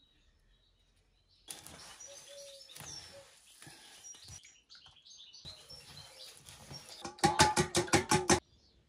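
Small birds chirping over an outdoor hiss. Near the end comes a loud, fast run of about eight pitched calls in just over a second, which stops abruptly.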